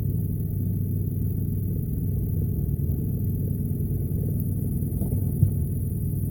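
Boat motor idling with a steady low rumble, and a single short knock about five and a half seconds in.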